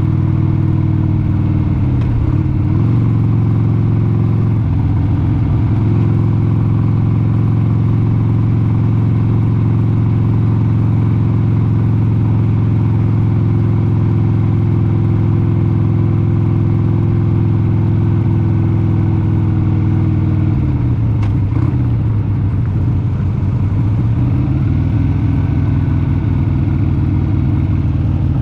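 1996 Harley-Davidson XLH883 Sportster Hugger's air-cooled 883 cc V-twin running under way at a steady cruising speed, with brief changes in engine note a couple of seconds in and again around five seconds. About two-thirds of the way through the revs drop, then climb again near the end.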